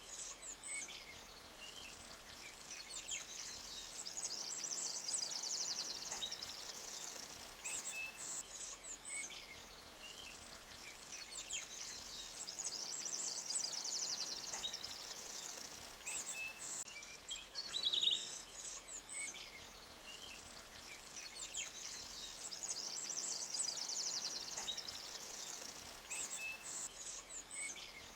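Forest ambience of songbirds chirping, with swelling high trills every several seconds.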